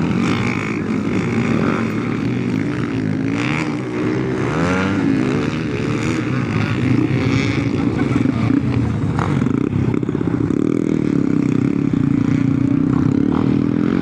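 Motocross dirt bike engines running hard, their pitch rising and falling with the throttle as the bikes race; several engines overlap, and near the end one holds a steadier note.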